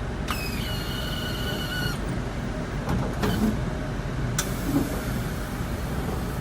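Used truck's engine running steadily with a low rumble. A high squeal starts about a third of a second in and stops about two seconds in. Sharp clicks follow at about three seconds and again at about four and a half seconds.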